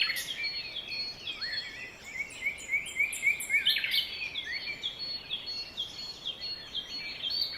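Small birds chirping: a run of short, quick repeated chirps, several a second, over a faint outdoor background.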